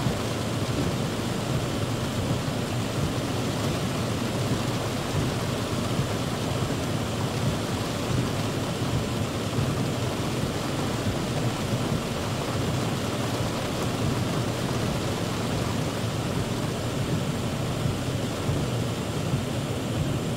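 Heavy rain falling on a car's roof and windshield, heard from inside the cabin as a steady, dense noise with no letup.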